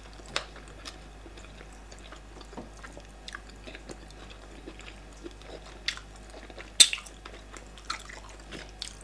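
Two people chewing mouthfuls of fufu and bitter leaf cocoyam soup eaten by hand, close up: soft, wet chewing with scattered sharp smacks, the loudest about two-thirds of the way through.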